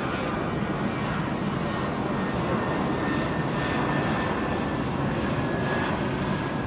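Jet airliner's engines after takeoff, a steady rushing noise with a faint high whine as it climbs away.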